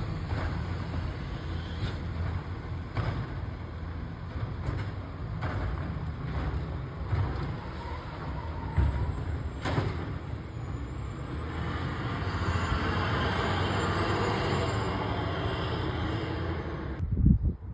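Garbage truck engine running close by, with scattered knocks and clanks. The noise swells for several seconds near the end, then a loud thump, after which the sound drops away abruptly.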